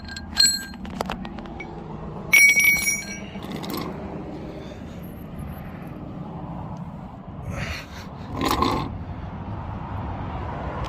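Metal clinks and one louder ringing clang, from a steel bottle jack and its handle being handled and set down, over a steady low outdoor rumble.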